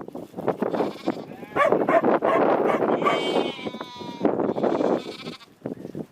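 A flock of sheep bleating, many calls overlapping one another with a wavering, quavering pitch.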